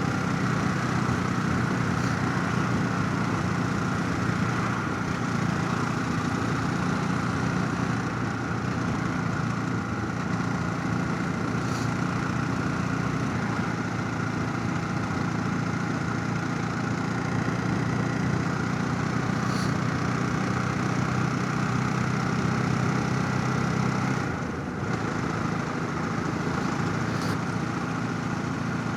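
Motorcycle engine running at a steady pitch on the move, over a constant rush of noise. About 24 s in the low engine hum drops away as the throttle eases.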